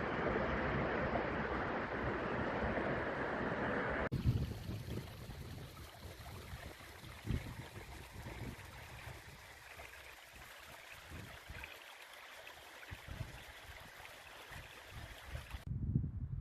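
Strong wind buffeting a smartphone microphone: a dense, steady rush for about four seconds that drops off suddenly, then lighter gusts thumping low on the microphone, growing stronger again near the end.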